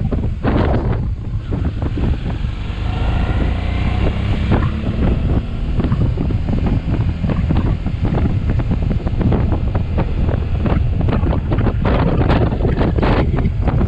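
Wind buffeting the microphone of a moving motorcycle, over the steady rumble of the ride. The motorcycle engine's note shows through briefly about three seconds in.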